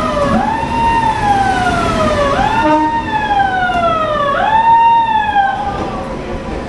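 A siren wailing: each cycle rises quickly, then falls slowly in pitch, repeating about every two seconds and dying away near the end.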